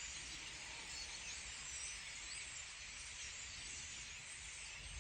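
Birds chirping, a few faint short calls scattered over a steady high hiss of outdoor background noise.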